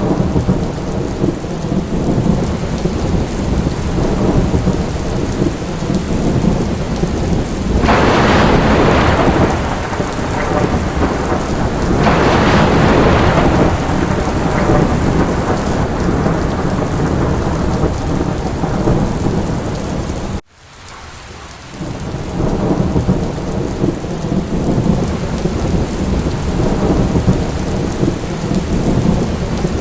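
Steady rain with a deep, low rumble under it. It swells louder about 8 and 12 seconds in, and about two-thirds of the way through it cuts out abruptly and fades back in, like a seam in a looped recording.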